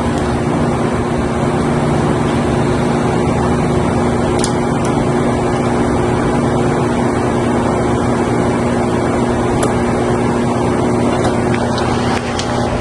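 Outdoor air-conditioning condenser unit running: a steady hum from its compressor with the rush of its fan.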